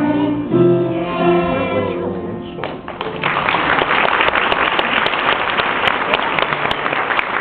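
A group of young children singing with instrumental accompaniment, ending about two seconds in; from about three seconds in, audience applause.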